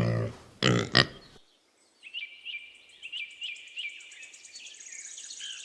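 Domestic pig grunting twice in the first second and a half. After a short gap comes a faint, high, rapidly pulsing chirping that lasts to the end.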